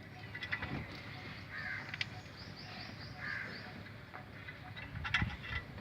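A crow cawing twice, with short bursts of sharp metallic clicks and taps near the start and again about five seconds in.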